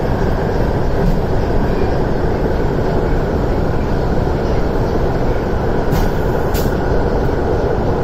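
Cabin noise of an MTR SP1900/1950 (IKK) electric train running between stations: the steady running noise of wheels on rail and running gear. Two brief sharp high-pitched sounds come about six seconds in.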